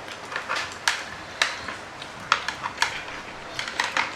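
Close-up eating noises over a plate of noodles: about a dozen irregular sharp clicks and smacks.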